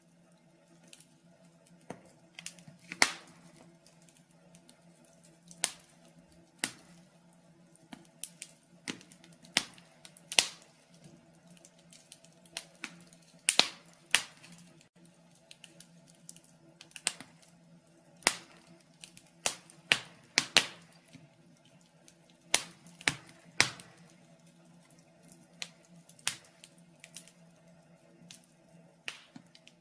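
Wood fire in a fireplace crackling, with irregular sharp pops and snaps, a few much louder than the rest, over a faint steady low hum.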